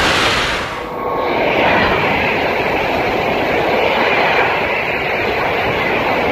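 KTX high-speed train running past at speed close by: a loud, steady rushing noise of wheels on rail and air along the carriages. About a second in the sound dips briefly and changes tone, losing its hiss at the very top.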